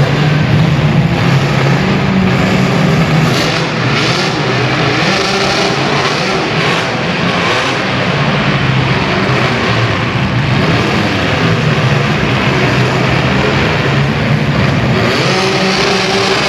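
Several compact cars' engines running and revving loudly, their pitch rising and falling throughout.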